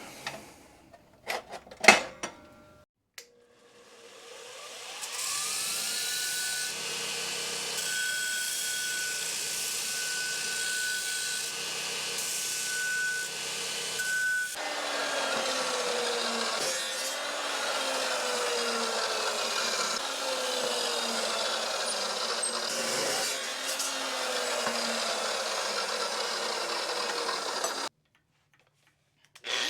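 A few knocks. Then an electric power tool spins up with a rising whine and runs steadily. From about halfway it is cutting, and its pitch sags again and again under load before it cuts off suddenly near the end.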